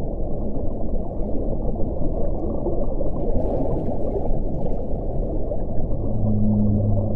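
Steady low-pitched rushing wind. A low, steady hum-like tone joins about six seconds in.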